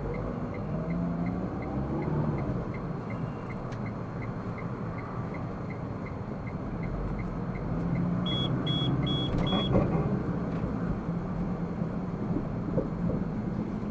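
Car driving, its steady engine and road noise heard from inside, with a tone rising over the first few seconds as it speeds up. A fast regular ticking runs for the first four seconds, and four short high electronic beeps sound about eight seconds in.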